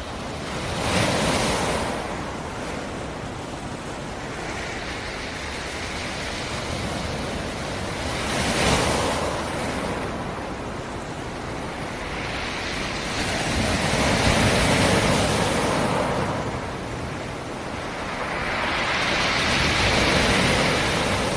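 Black Sea surf: four waves break on the shore, each a rush of water that swells and dies away, over a steady wash of sea noise.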